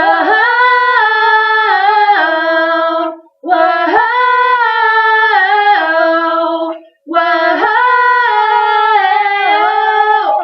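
Female voice singing unaccompanied: three long held phrases of about three seconds each, with short breaks between them and the pitch moving from note to note.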